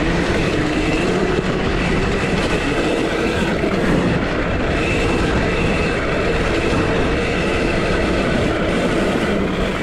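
2023 KTM SX-E5 electric mini motocross bike riding hard: a continuous rattle from the drive train and a steady rushing noise, with the electric motor's whine shifting slightly in pitch.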